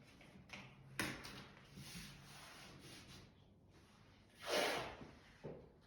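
Faint work-site handling noises: a sharp knock about a second in, then a louder, brief scraping rush about four and a half seconds in.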